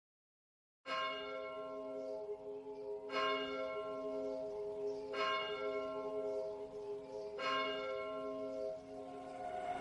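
Church bell tolling, struck four times about two seconds apart after a second of silence, each strike ringing on into the next. A rising rushing noise begins to build near the end.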